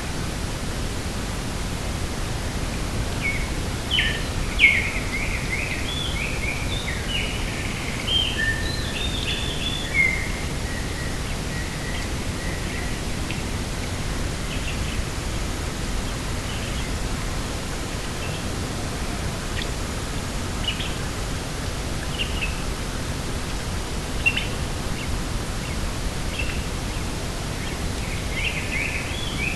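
Small birds chirping, in a quick run of calls a few seconds in and then scattered calls, over a steady rush of wind.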